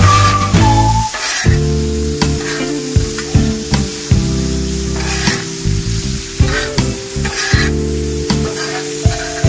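Food frying and sizzling, stirred with a utensil that clicks now and then, under background music of long held chords.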